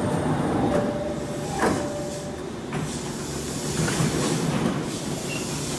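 E217-series electric train standing at the platform with its doors open, its onboard equipment running with a steady hum, with a single sharp knock under two seconds in.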